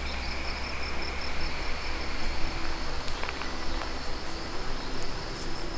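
Rainforest insects calling steadily, a high pulsing trill over an even background hiss, with a second thinner insect tone that drops out about halfway through.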